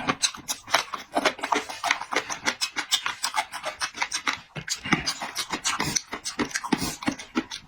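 Close-up eating sounds: a person chewing and smacking their lips, a rapid, uneven run of wet clicks and smacks.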